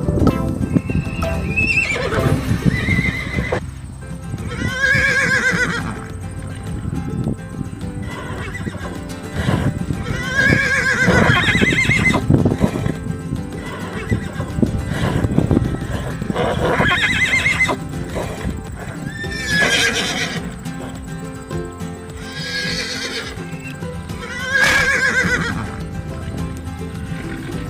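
Horse neighing repeatedly: about seven shaky whinnies, each falling in pitch, a few seconds apart, over background music.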